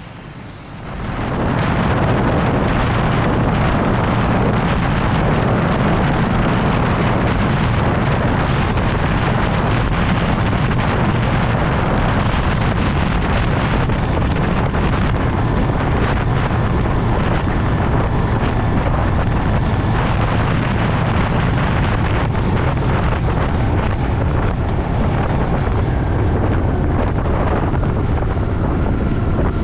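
Motorcycle cruising at a steady speed, with wind noise on the microphone over the low drone of the engine. The sound swells up about a second in and then holds steady.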